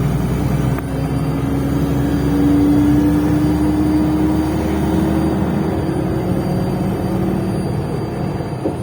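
MAZ-105 articulated city bus pulling away, its engine and drivetrain giving a steady whine that climbs slowly in pitch for several seconds as it gathers speed.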